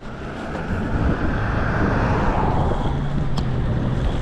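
City street traffic heard while riding, with wind on the microphone: a vehicle passes, its tyre and engine noise sinking in pitch over the first two seconds or so. A short sharp click comes about three and a half seconds in.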